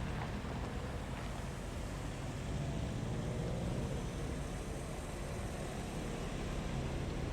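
A car engine running steadily as a car drives past.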